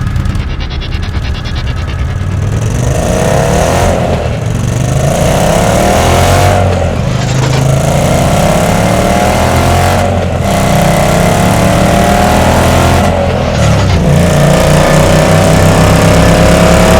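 Indian PowerPlus 1769 cc liquid-cooled 60-degree V-twin motorcycle engine accelerating hard through the gears. Its pitch climbs, then drops back at each of about four quick upshifts.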